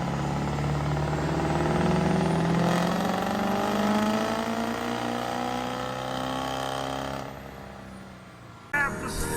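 Diesel truck engine under load, its pitch rising steadily for about seven seconds as it accelerates, then dropping away. Music cuts in near the end.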